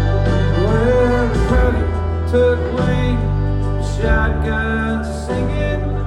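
Country band playing live: strummed guitars over a steady bass, with a melody line that bends in pitch early on.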